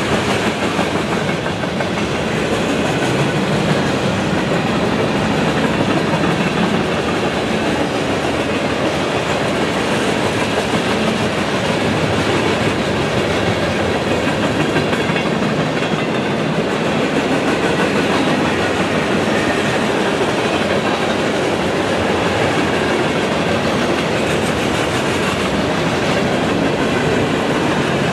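Freight cars (tank cars and boxcars) rolling past on steel wheels: a steady rumble and clatter of wheels on rail, with clickety-clack over the rail joints.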